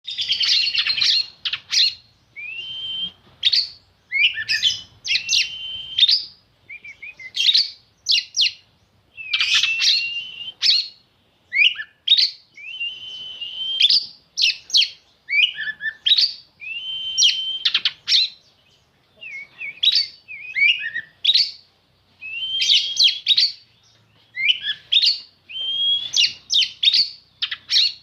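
Oriental magpie-robin (black-and-white kacer) singing: a long string of varied phrases of quick sweeping, chattering notes and held high whistles, each phrase a second or two long with short pauses between.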